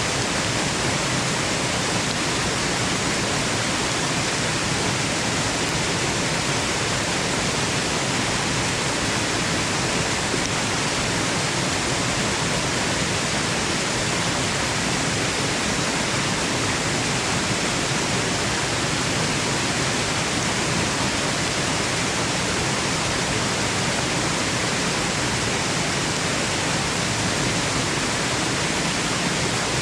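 Waterfall rushing steadily, an even, unbroken wash of water noise with no changes, played as white noise for sleep.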